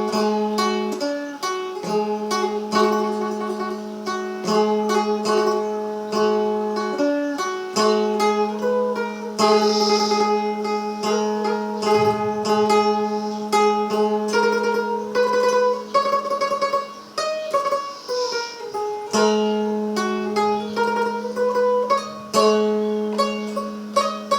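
Thai phin, the Isan plucked lute, playing an instrumental introduction: a quick plucked melody over a steady open-string drone.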